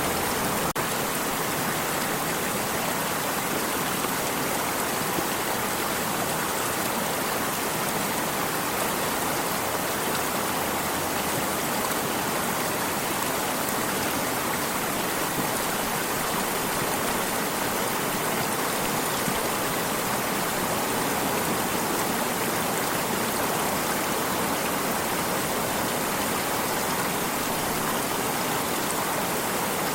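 Water stream running steadily, an even unbroken rush of flowing water.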